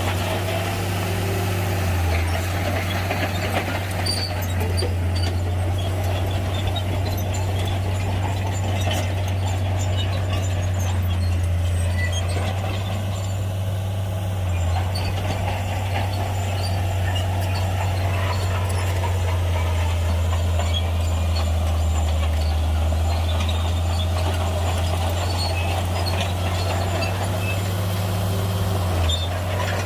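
Shantui heavy bulldozer's diesel engine running steadily under load with a deep, low drone, its note dipping briefly a few times, over faint scattered metallic clicks.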